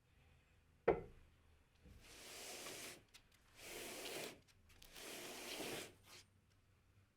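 A single sharp knock, then three rubbing strokes of about a second each across a wooden surface.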